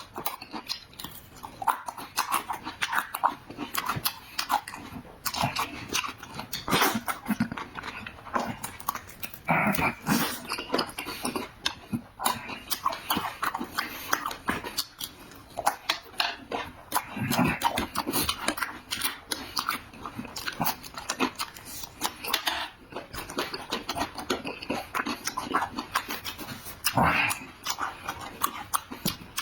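Loud, wet chewing and smacking of someone eating meat, with many short clicks and slurps close to the microphone.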